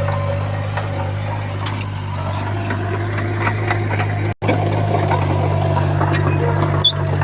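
Diesel engine of heavy earthmoving equipment running steadily at a constant low pitch, with faint scattered clicks. The sound cuts out briefly about four seconds in.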